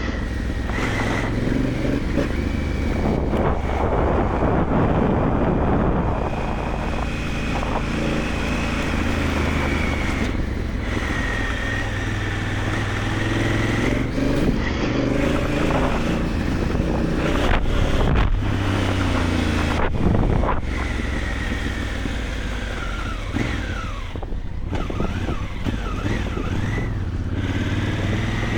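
Honda Africa Twin adventure motorcycle engine running while riding, its pitch rising and falling with the throttle, along with wind and road noise.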